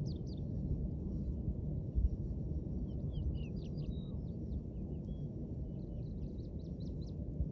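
Small birds singing in three short runs of quick, high chirps over a steady low outdoor rumble, with a single soft thump about two seconds in.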